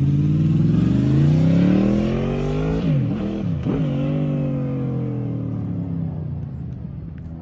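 Honda VFR800's V4 engine revving hard as the motorcycle accelerates, with two quick gear shifts about three seconds in. It then pulls on at steadier revs and fades as it rides off.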